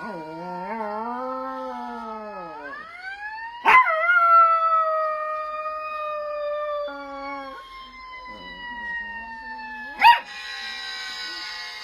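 A dog howls along with a fire truck siren. The dog's howl rises and falls over the first few seconds. About three and a half seconds in, the siren's wail climbs sharply in pitch, then falls slowly, with the dog joining in again partway through. Two sharp, loud cracks come about four and ten seconds in.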